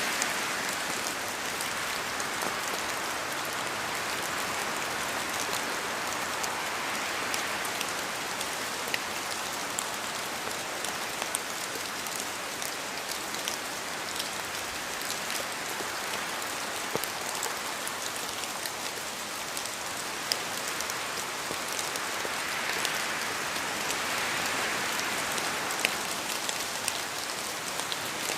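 Steady rain falling in a forest, a continuous hiss with many small, sharp drop ticks; the hiss swells slightly near the end.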